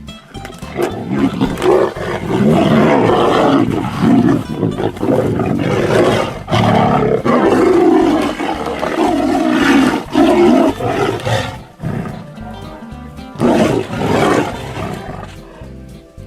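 Big cats roaring again and again as they fight, in loud rough bursts for most of the first eleven seconds and once more near the end, over background music.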